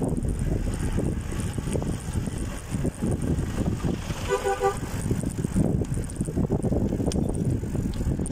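Wind buffeting the microphone and rolling rumble from a moving bicycle, with one short horn toot, two-toned, a little over four seconds in.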